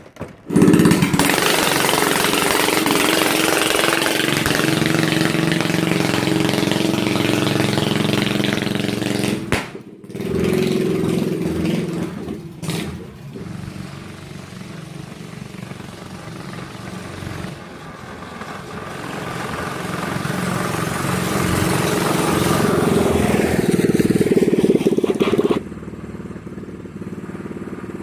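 Small engine of a motorized porta potty kart running as it drives. It breaks off abruptly about ten seconds in, comes back weaker, then builds louder before cutting off suddenly near the end.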